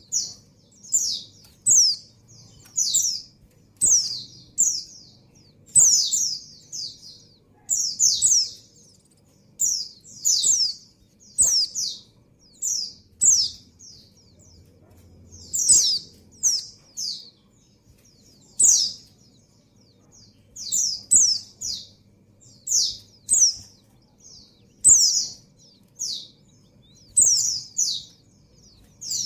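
Female white-eye (pleci) calling: short, high, downward-slurred chirps, repeated about every second and often in quick pairs or triplets. This is the call of a female in breeding condition calling for a male.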